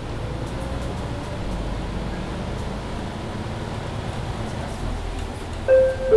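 Mercedes-Benz Citaro C2 hybrid city bus running with a steady low rumble, heard from on board. Near the end a loud two-note chime sounds, falling in pitch: the bus's on-board gong.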